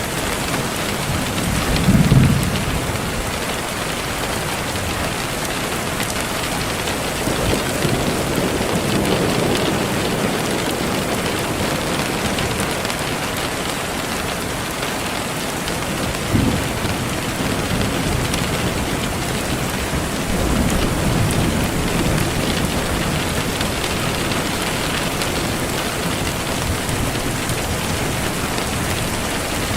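Steady rain falling, with several low rolls of thunder, the loudest about two seconds in.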